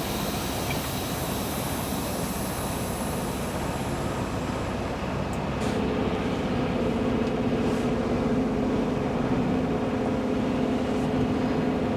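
Western Star 49X semi truck's diesel engine running with a steady hiss; about six seconds in, a steady low drone comes in and grows slightly louder.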